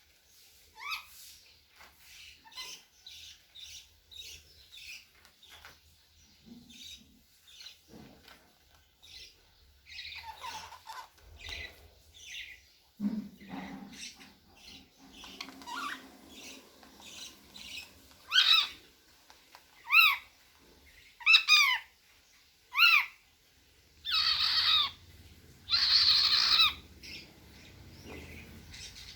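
Cockatiel singing: soft chirps and twitters at first, then a run of four loud sweeping whistle notes about a second and a half apart, followed by two longer, harsher calls.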